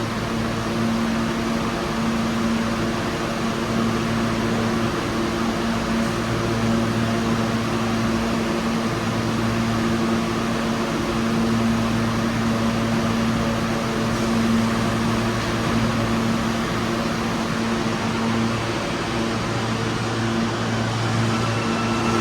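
Steady mechanical hum of an underground subway platform, with a constant low electrical buzz; a faint high steady tone comes in near the end.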